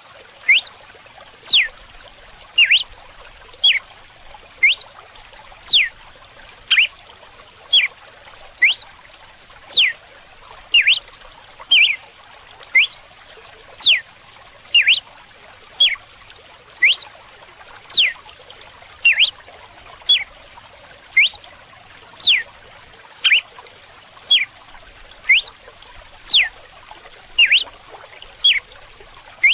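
Red-cowled cardinal (galo-de-campina) giving its whip-like 'açoite' call: short, sharp whistled sweeps about once a second, some shooting steeply upward and some falling, over the steady trickle of running water.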